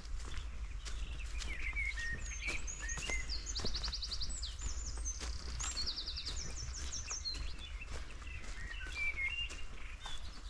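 Small forest birds calling, with short chirps and several quick trills in the middle, over footsteps crunching on the forest floor and a steady low rumble.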